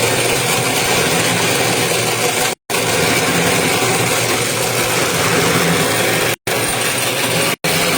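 Toroidal transformer winding machine running steadily, a loud, even mechanical noise. It is cut off abruptly to silence three times, about two and a half, six and a half, and seven and a half seconds in.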